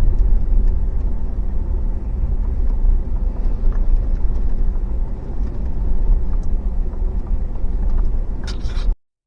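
Steady low rumble of a truck driving, engine and road noise heard inside the cab; it cuts off suddenly near the end.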